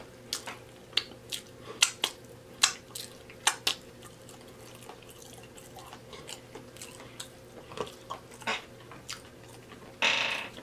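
Close-up wet mouth sounds of a person chewing with the mouth open, with sharp lip smacks several times a second in the first few seconds. The smacks then thin out to quieter chewing, and a longer, louder wet smack comes about ten seconds in.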